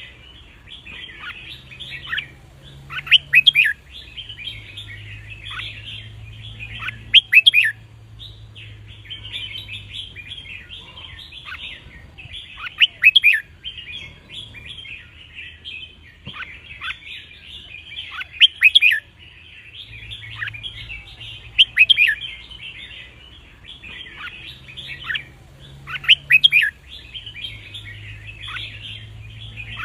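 Red-whiskered bulbuls singing: a steady chatter of calls, broken every few seconds by a loud, sharp song phrase.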